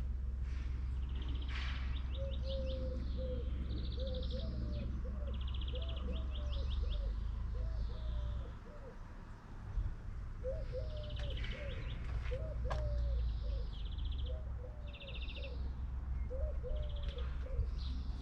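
Small birds chirping and trilling again and again, with a second series of short, lower hooked calls, over a steady low rumble that briefly drops away about halfway.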